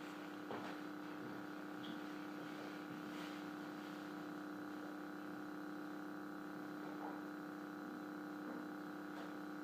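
Faint, steady electrical hum with several tones, and a few light ticks.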